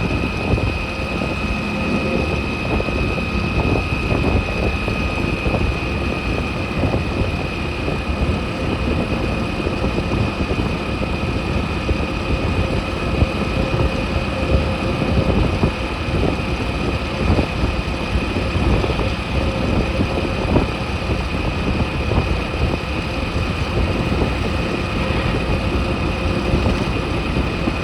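Motorcycle running steadily on the move, with wind and road noise on the microphone and a thin, steady high whine.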